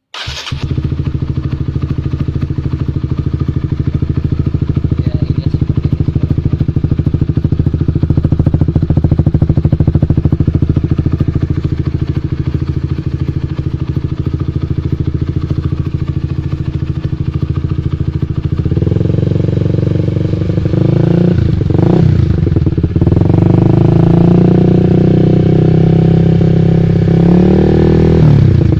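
A Honda Sonic 150R's single-cylinder engine starts, then runs loudly through an aftermarket Kawahara exhaust. The idle is steady at first. About two-thirds of the way through, the engine speed rises and the sound gets louder, with quick throttle blips there and again near the end.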